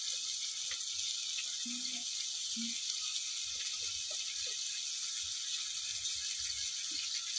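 Onions and tomatoes frying in a pot over a wood fire: a steady sizzling hiss with scattered small crackles and ticks.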